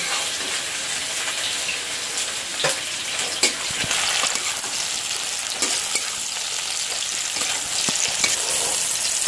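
Oil sizzling in a karahi while a spatula scrapes fried onion, garlic, ginger, green chilli and tomato out of it onto a steel plate. A few sharp clicks of the spatula against the metal pan and plate sound over the steady sizzle.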